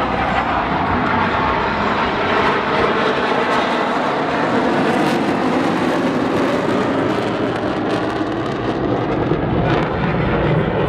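Aircraft engine noise from an airplane at the air show, loud and steady.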